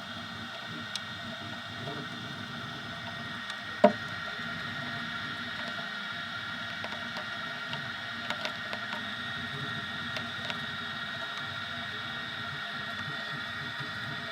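Easythreed X2 desktop 3D printer running, its stepper motors giving a steady whine of several held tones over a low hum. One sharp knock comes about four seconds in, and a few faint ticks follow later.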